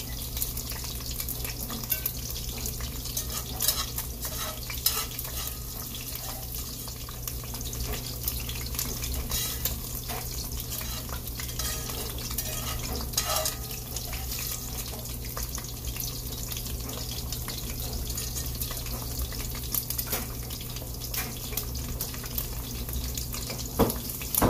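Beef pieces sizzling steadily as they fry in oil in a cast-iron skillet. Scattered clicks and scrapes come from a utensil stirring vegetables in a second pan, over a steady low hum.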